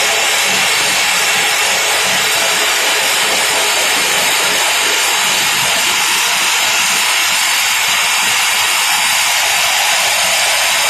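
Simba S7D long-hole drill rig's hydraulic top-hammer rock drill drilling on T-38 rods with a 64 mm bit: a loud, steady hissing noise without pauses.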